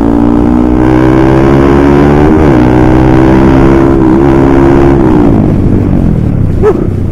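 Honda CBR150R facelift's single-cylinder engine through an aftermarket switchable exhaust, pulling hard under way: the revs climb in the first second, hold high with two brief dips, then fall away after about five seconds.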